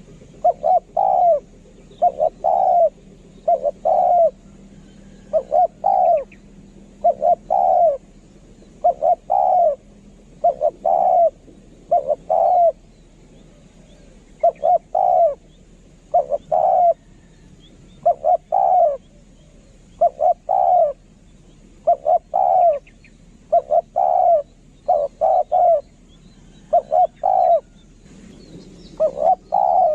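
Spotted dove cooing over and over in short, often paired coo notes every second or two: the song of a captive decoy dove of the kind kept for dove calling. Faint chirps of small birds are heard above it.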